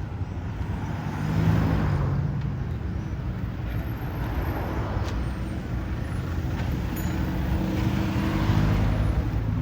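Road traffic going by: a steady run of car engines and tyre noise, with one vehicle passing louder about a second and a half in and another near the end.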